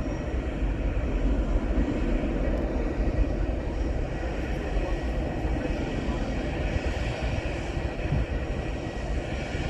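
Jet engine noise from an Airbus A321-131 with IAE V2500 turbofans climbing away after take-off: a steady, deep rumble with a hiss on top that slowly fades.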